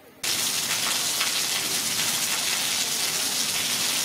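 Steady rain falling on a wet street, cutting in suddenly a moment after the start.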